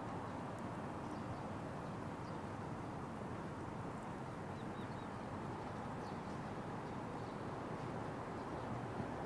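Wood fire burning in a Petromax Atago stove: a steady low rushing with a few faint crackles.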